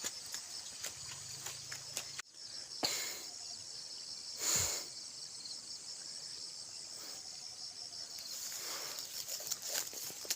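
Insects droning in a steady high chorus, which cuts out abruptly about two seconds in and returns. A few sharp knocks sound over it, and a louder dull thud lands about four and a half seconds in.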